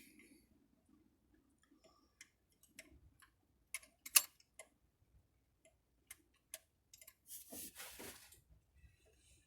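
Scattered light clicks and taps from small parts and tools being handled during carburetor work, with one sharper click about four seconds in and a short rustle about seven and a half seconds in. There is no engine cranking or running.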